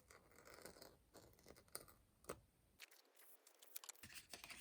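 Faint rustling with a few small, light clicks of objects being handled, close to silence.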